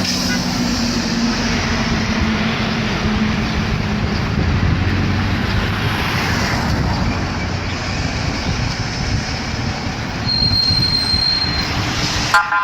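A train rolling past at close range, its wheels rumbling steadily on the rails, with a brief high wheel squeal about ten seconds in.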